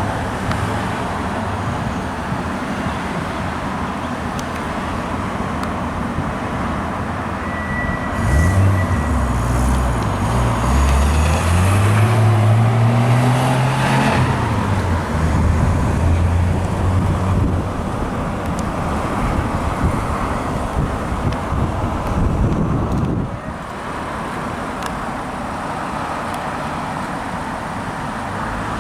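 Road traffic with a car driving past under acceleration: its engine note rises from about eight seconds in, peaks around the middle, then falls away into the steady traffic noise.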